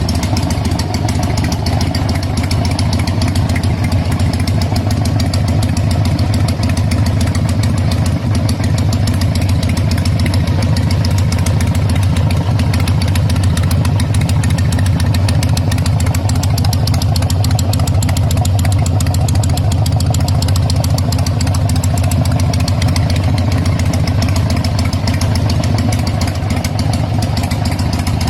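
Harley-Davidson Sportster 100th Anniversary Edition's air-cooled V-twin idling steadily through its exhaust, an even run of firing pulses with no revving.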